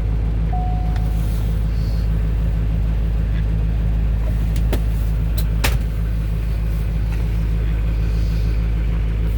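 Duramax V8 turbo-diesel of a Chevrolet 4500 Blue Bird Micro Bird bus idling steadily after start-up. A single chime beep sounds about half a second in, and a few sharp clicks come near the middle.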